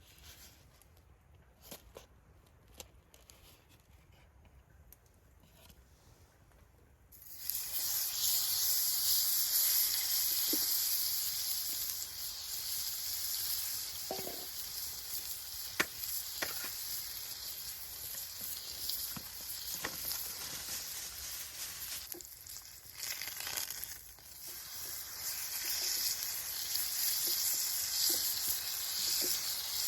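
Food sizzling in a hot pan over a campfire. Loud sizzling starts suddenly about seven seconds in and keeps going with scattered small pops. Before it there are only a few faint light clicks.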